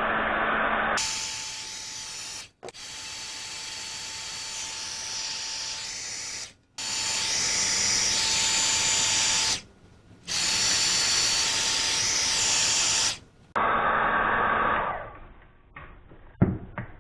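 Electric heat gun blowing steadily with a faint motor whine, shrinking heat-shrink tubing onto a fishing reel handle grip; it stops abruptly and starts again three times before shutting off. A short knock follows near the end.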